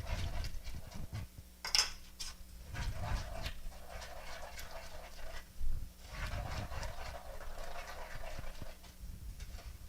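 Spoon stirring a thick coconut pecan icing in a saucepan on the stove: uneven scraping swishes with small taps against the pan.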